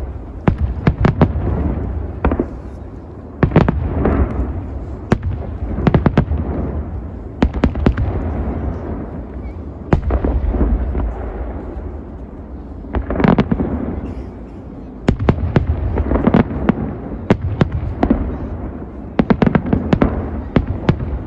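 Aerial fireworks shells bursting in a continuous barrage: sharp bangs every second or so, often in quick clusters of cracks, over a deep rolling rumble.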